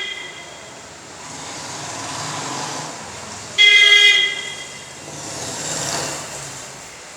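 A vehicle horn honks once, a flat steady note for about half a second, a few seconds in, over the rising and fading noise of vehicles passing by.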